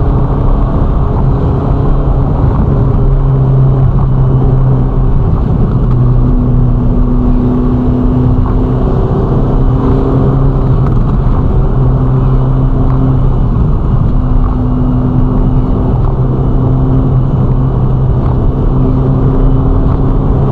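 Ferrari Roma's twin-turbocharged V8 running at steady cruising speed, its low engine note holding a nearly constant pitch with only slight shifts, over steady road and tyre noise.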